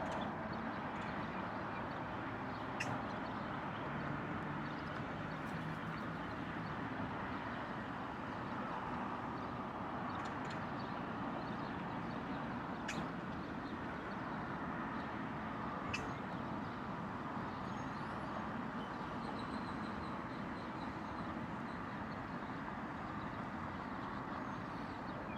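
Steady background noise of the pilot's surroundings, even and unbroken, with a few faint ticks.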